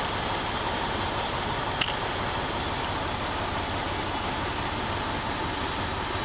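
Semi truck's diesel engine idling steadily, heard from inside the cab, with a single light click about two seconds in.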